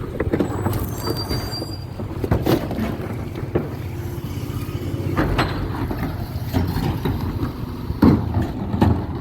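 Garbage truck engine running steadily, with several sharp knocks and clanks over it.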